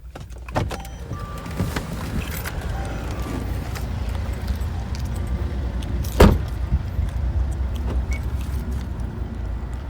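Steady low rumble of a car, with scattered clicks and rattles and one sharp knock about six seconds in.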